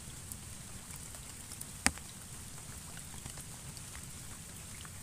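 Steady rain falling, with many small drop ticks, and one sharp click about two seconds in.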